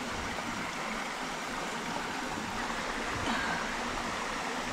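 Steady rush of flowing water, an even hiss with no single sounds standing out.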